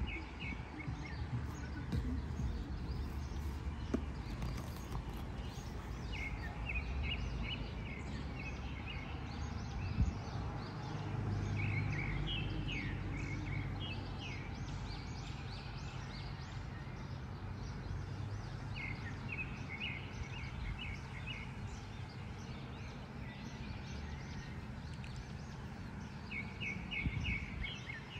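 A bird repeating a short run of quick high chirps every several seconds, over a low background rumble.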